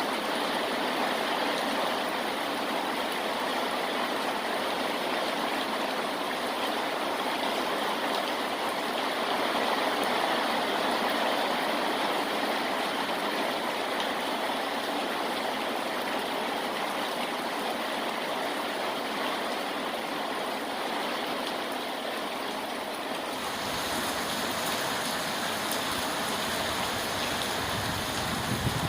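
Steady rain falling, an even rushing hiss without distinct drops or pauses; about three-quarters of the way through it changes character, with more low rumble and more high hiss.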